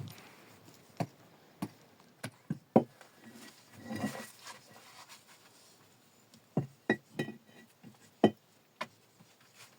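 About a dozen irregular sharp knocks and clacks of hard objects striking each other, two or three of them loud. A short scraping rustle comes about four seconds in.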